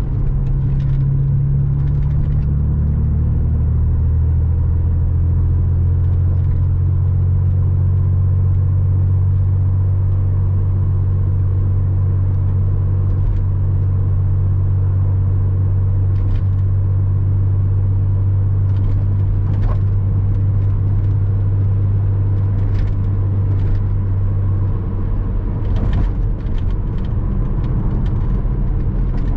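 Porsche Boxster 986's flat-six engine running at a steady cruise with road noise. The engine note settles slightly lower in the first few seconds, holds steady, then eases off near the end.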